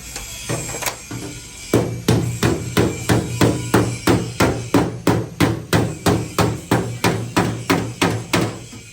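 Hammer striking sheet metal in quick, even blows, about three a second, with a few lighter taps at first, as in panel-beating a damaged car door. The blows stop shortly before the end.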